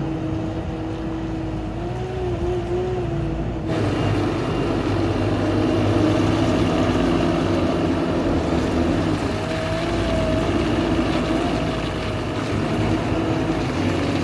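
Linde H140 diesel forklift running steadily, with a whine that wavers up and down in pitch over the engine note. About four seconds in, a hiss joins and the sound gets a little louder.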